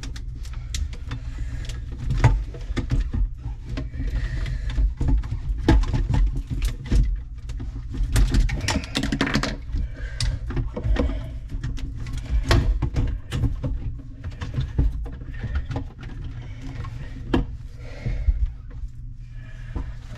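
Irregular clicks and knocks of things being handled, over a steady low hum.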